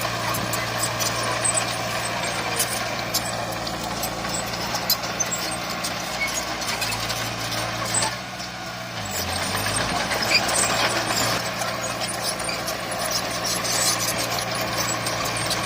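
Heavy diesel engine of earthmoving machinery running steadily under a scatter of sharp clicks and knocks. About eight seconds in, the sound dips briefly and the engine note shifts in pitch before it picks up again.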